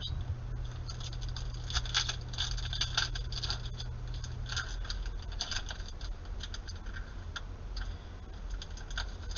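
Trading cards being handled and flipped through: a run of quick, irregular soft clicks and rustles as card stock slides and taps against card stock.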